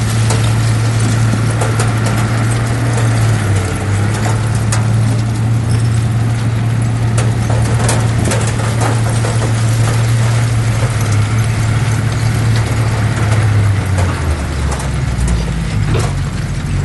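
Heavy diesel engine of earthmoving machinery running steadily, with scattered metallic clanks and knocks. About fourteen seconds in, the engine's pitch drops and starts to waver.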